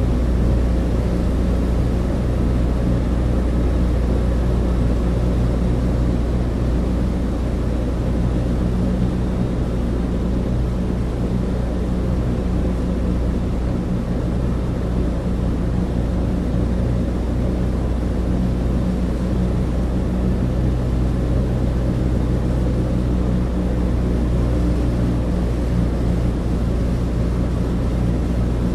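Cabin interior of a Douglas DC-3 in flight: the steady drone of its twin radial piston engines, a deep hum with several steady engine tones under a hiss of airflow.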